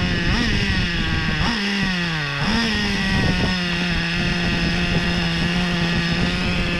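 Small nitro RC car engine running with a high buzz. It dips in pitch about two seconds in, then holds a steady pitch, with a few short revs.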